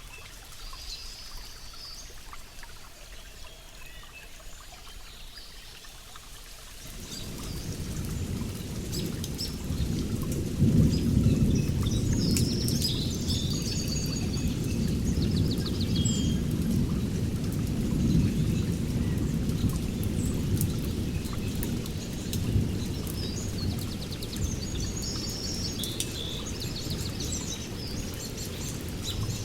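Rain falling, with birds chirping. About seven seconds in, a long low thunder rumble builds up, is loudest a few seconds later, and keeps rolling to the end.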